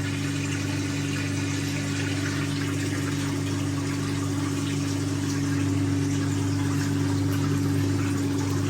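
The 1958 Hotpoint Empress washing machine's electric motor driving its drain pump, running with a steady hum as it pumps the soapy wash water out through the drain hose.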